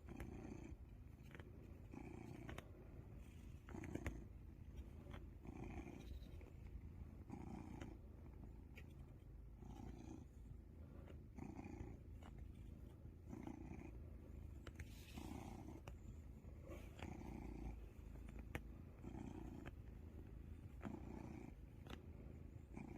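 Domestic cat purring steadily at close range while kneading. The low purr swells and fades with each breath, about every one and a half to two seconds.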